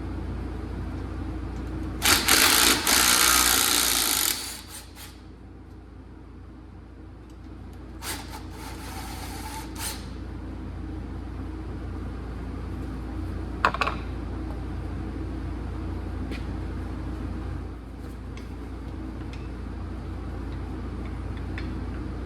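Power tool run in two short bursts, the first loud and about two seconds long, the second weaker, while unbolting the driveshaft from an old Plymouth's underside. A steady low hum runs underneath, and there is a single sharp knock a little past the middle.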